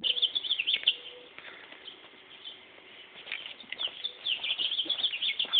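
Small birds chirping: rapid strings of short, high chirps, a flurry in the first second and another from about three seconds in.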